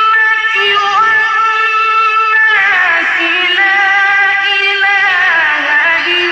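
Melodic Quran recitation by a single male reciter, holding long notes with wavering ornaments and slides. About two and a half seconds in, the phrase breaks and a new line begins.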